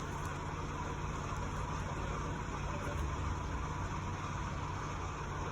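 Steady low mechanical hum with an even wash of background noise, unchanging throughout.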